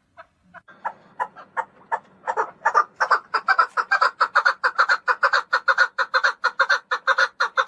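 Chukar partridge calling: a series of short clucking notes that begin sparse and quicken about two seconds in into a steady run of about five notes a second.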